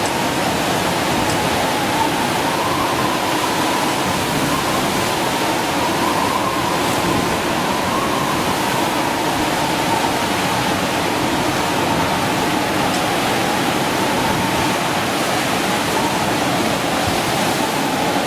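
Steady, loud rushing of water with no break: storm rain or floodwater.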